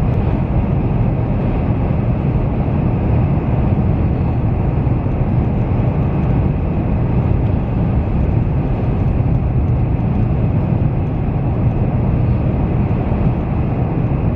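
Steady road and wind noise inside a moving car's cabin, a constant low rumble without a break.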